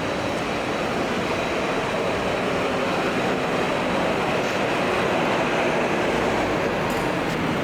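Steady rushing noise of an underground MTR metro station, with a train running in the station.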